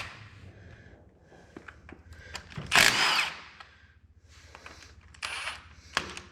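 Cordless power driver running in short bursts, spinning out the retainer plate bolts: one longer burst with a rising and falling whine about three seconds in, then two short bursts near the end.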